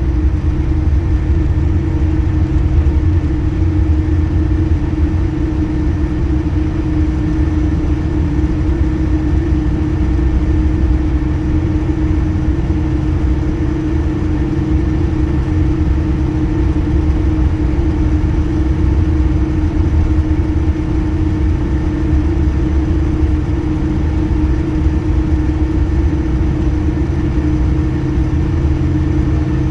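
Steady drone of an airliner's jet engines heard inside the cabin: a low rumble with an even hum over it, holding steady without rising or falling.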